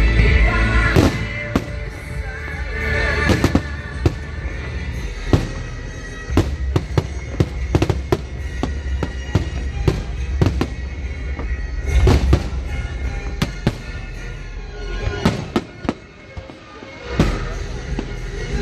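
Fireworks display: shells bursting in sharp bangs and crackles, coming thick and fast from about six seconds in, with a low rumble and music playing underneath. The bursts ease off briefly near the end before picking up again.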